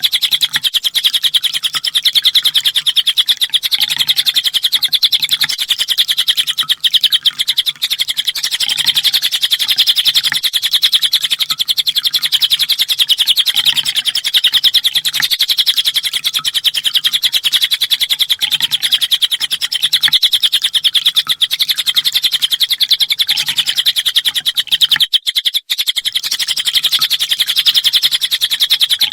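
Sunbird (kolibri ninja) song: a rapid, unbroken high-pitched chirping trill that goes on and on without a pause.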